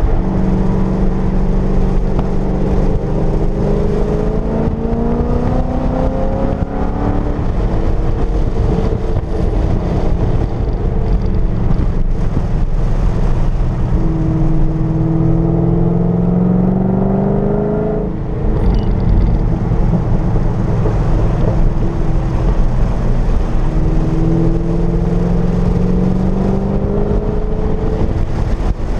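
Corvette's V8 engine heard from inside the cabin at track speed, rising in pitch in long pulls three times, with a sudden drop about 18 seconds in, over steady wind and tyre noise.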